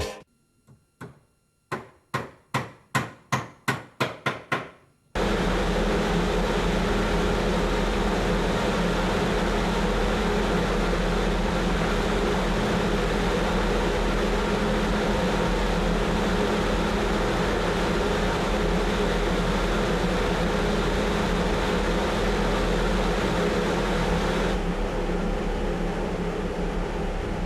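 A wind-test blower for roof tiles: a run of about ten knocks coming faster and faster, then from about five seconds in a loud steady rush of air with a low hum, easing slightly near the end.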